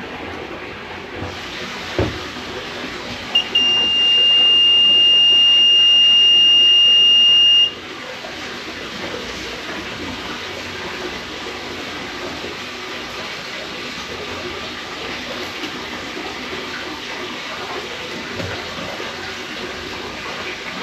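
Water running steadily, with a sharp click about two seconds in, then a loud, high, steady electronic beep lasting about four seconds: the water-leak detection module's alarm signalling that it has sensed water.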